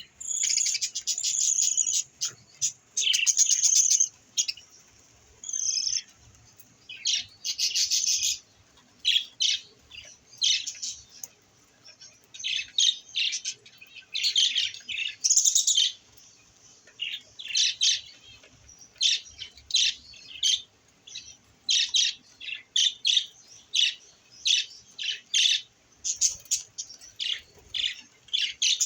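Budgerigars chirping and chattering: quick runs of short, high calls, coming in clusters with brief pauses.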